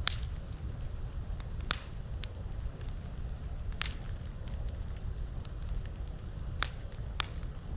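Wood campfire crackling, with a sharp pop every second or two over a steady low rumble.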